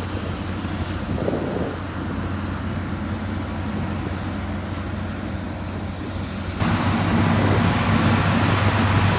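Diesel engine of heavy road-building machinery running steadily with a low, even hum. About six and a half seconds in, the sound suddenly becomes louder and fuller.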